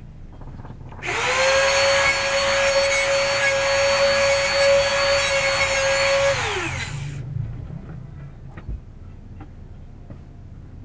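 Bosch GMR 1 palm trimmer router switched on, running at a steady high whine for about five seconds, then switched off and spinning down with a falling pitch.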